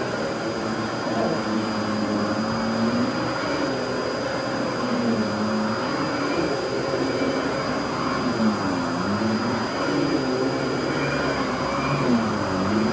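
Fantom Lightning vacuum cleaner running steadily, its motor giving a constant high whine over a broad rush of airflow.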